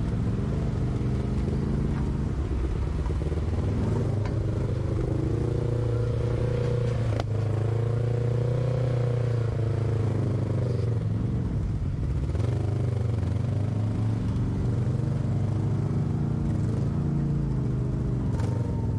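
Off-road vehicle engine running under load on a trail, its pitch rising and falling with the throttle. A few sharp knocks come through, about a third of the way in and near the end.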